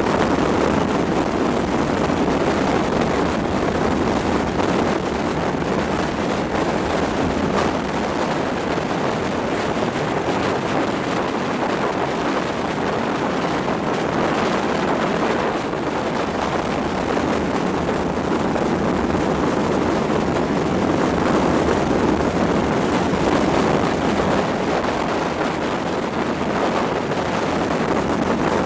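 Passenger train running at speed, heard at an open window: a steady rush of wheel-on-rail noise and wind on the microphone.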